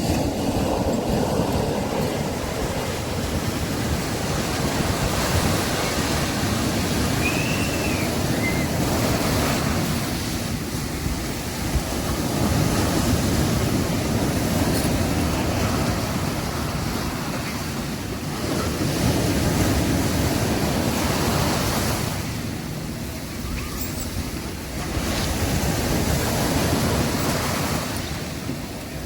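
Sea waves breaking and washing up a beach, the surf rising and falling in surges every six or seven seconds.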